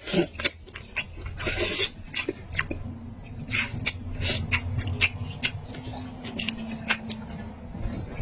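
Close-up chewing of meat, with wet mouth clicks and smacks coming irregularly throughout.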